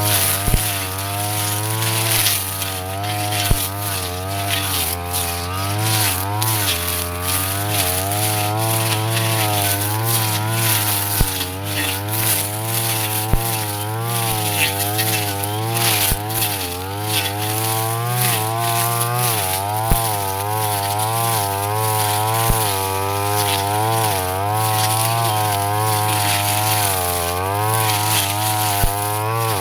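Brush cutter engine running hard, its pitch wavering up and down as the blade works through thick grass, with occasional sharp clicks.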